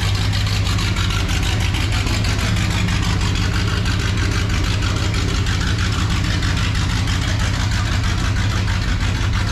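Busch Series NASCAR stock car's V8 engine running at a loud, steady idle.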